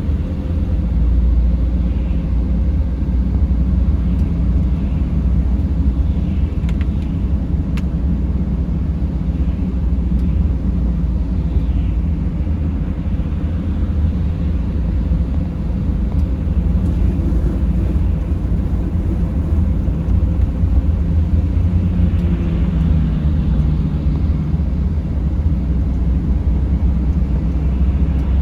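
Mercedes Sprinter van driving at a steady speed: a continuous low rumble of engine and tyres, with a few faint clicks.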